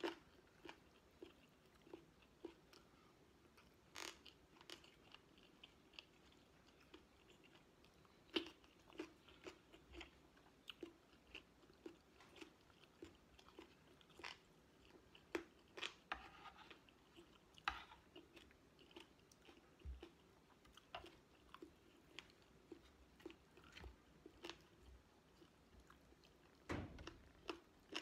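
A person chewing rice and chicken adobo close to the microphone: a quiet, steady run of short wet mouth clicks and smacks, with a few louder ones now and then.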